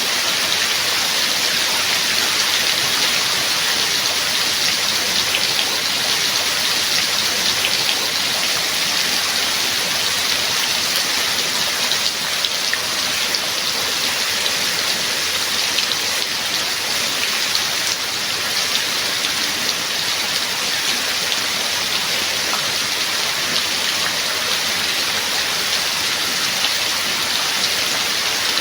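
Rain falling steadily, a dense even hiss with many small drop ticks and no thunder.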